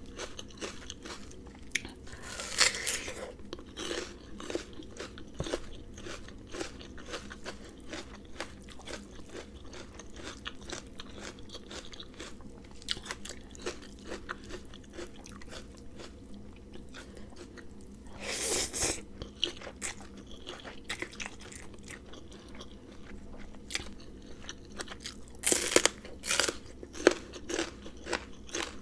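Close-up chewing and crunching of a spicy Thai rice-noodle salad with shrimp and raw vegetables, with small crunches throughout and a few louder crunching bites about three seconds in, about two-thirds of the way through, and near the end.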